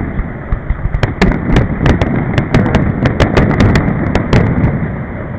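Aerial fireworks shells bursting close by in quick succession: a rapid string of sharp cracks and pops over a deep booming rumble. The rumble fades away near the end.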